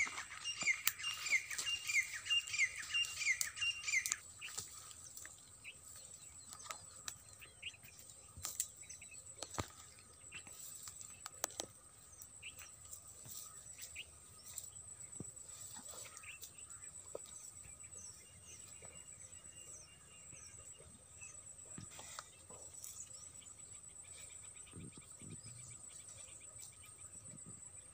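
Small birds chirping outdoors: a brisk run of repeated falling chirps, about two a second, in the first four seconds, then fainter scattered chirps with occasional soft clicks and rustles.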